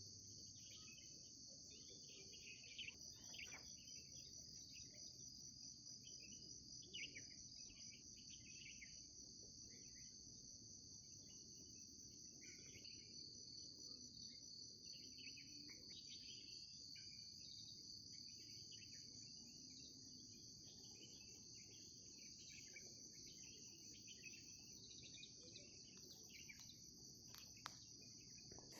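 A faint, steady, high-pitched insect chorus trilling without a break. Short bird chirps come and go over it.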